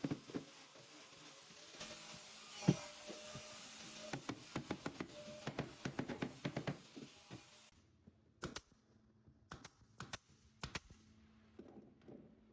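Runs of light, quick taps and knocks, several a second, with one heavier thump about three seconds in; after the middle the taps thin out to a few separate sharp clicks.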